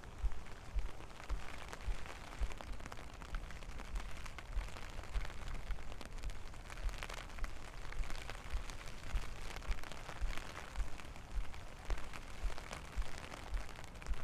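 Steady rain falling, full of small sharp drop ticks, with a low thump about twice a second.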